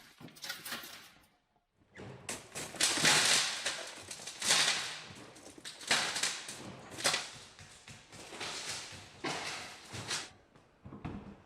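Workshop noise of a scrapped car being dismantled: irregular bursts of hissing and clattering from tools and parts, one after another.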